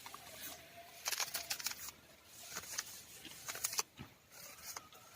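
Bird's strong beak working at something, giving quick runs of sharp crackling clicks twice, with faint thin whistling tones beneath.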